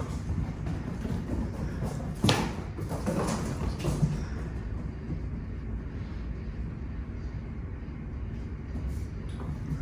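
A steady low hum, with a single sharp knock about two seconds in and some lighter scuffling and clatter just after.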